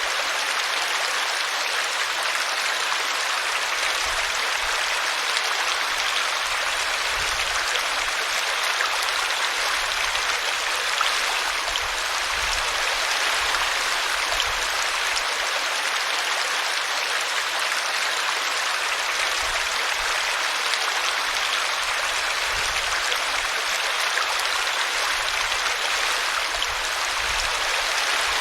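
A small brook running steadily as it spills over a tree root, with a constant rushing babble of water.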